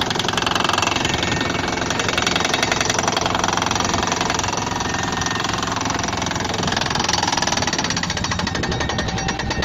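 Pneumatic drilling rig running, its hammer striking in a rapid, continuous rattle over the steady drone of an engine.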